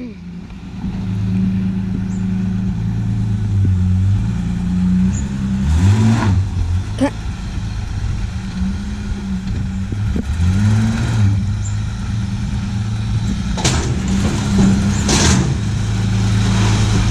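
Holden VS Commodore's engine running at low revs, with its pitch rising and falling twice as it is given throttle while the car is positioned.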